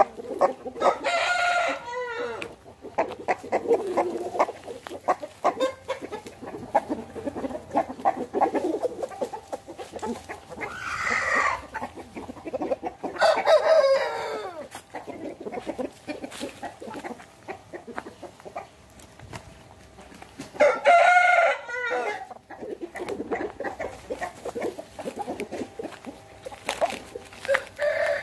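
Aseel roosters crowing several times, about five long crows spread across the stretch, with chickens clucking in between.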